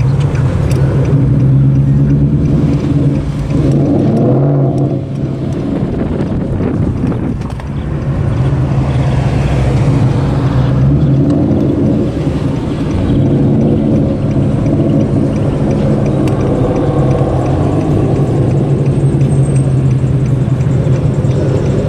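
Car engine running steadily with a low, even exhaust drone, easing off briefly twice before settling back to the same note.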